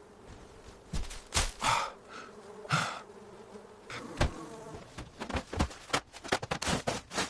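Insects buzzing, with irregular rustles and knocks that come thicker in the second half, as of trash being shifted.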